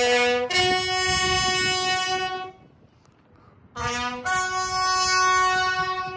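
Bugle call at a military ceremony: a short low note leaping to a long held note a fifth higher, a pause, then the same two-note phrase again.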